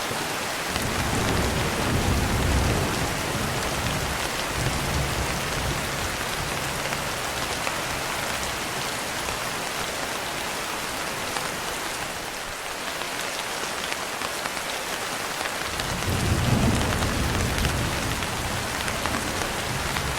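Steady heavy rain on a window, with low rolling thunder rumbling from about a second in for a few seconds, and again, loudest, near the end.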